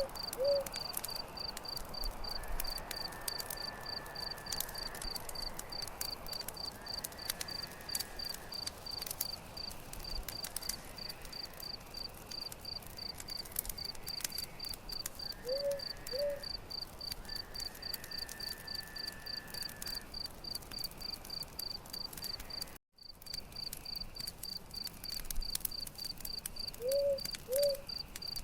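A cricket chirps steadily at about three pulses a second over a crackling campfire with scattered sharp snaps. A short two-note animal call sounds three times: at the start, about halfway and near the end. The sound cuts out for an instant about three quarters of the way through.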